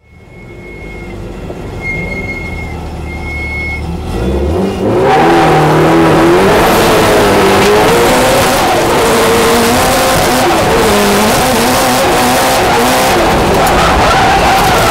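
Subaru Impreza drift car's engine heard from inside the cabin. It idles at first, with three short high beeps. About four seconds in it revs up and runs hard at high revs, its pitch rising and falling as the car is driven.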